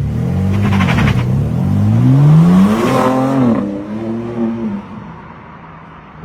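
BMW M4 Competition's twin-turbo straight-six engine revving up, its pitch climbing to a loud peak about three seconds in, then dropping back and settling to a quieter steady run.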